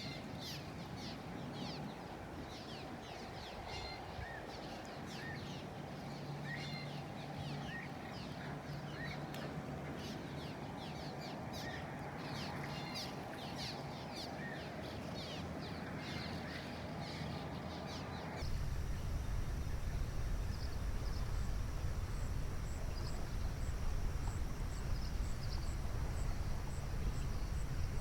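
Outdoor nature ambience: birds chirping with many quick, repeated calls. About two-thirds of the way through, the sound changes abruptly to a low rumble with an insect pulsing steadily, about twice a second.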